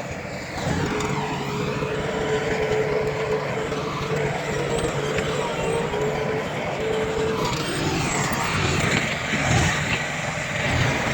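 Heavy earthmoving machinery running: a steady engine rumble with a held whine, which fades out about two-thirds of the way through.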